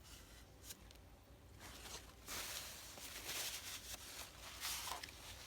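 Faint handling of paper and card: a few light taps, then from about two seconds in a steady papery rubbing and rustling, as of pieces being pressed down and smoothed.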